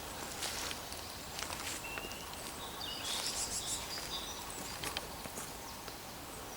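Woodland birds singing: short, high chirps and brief whistled notes scattered every second or so over a steady outdoor hiss.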